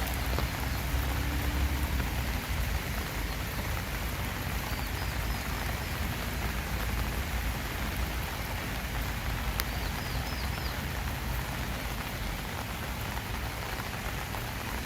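Steady rain falling, a dense even patter of drops. Twice, about five and ten seconds in, a quick run of three or four faint high chirps sounds over it.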